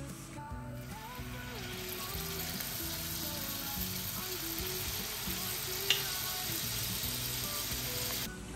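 Corn tempura batter frying in hot oil in a pan, a steady sizzle that starts about half a second in and cuts off near the end, with a single sharp click about six seconds in.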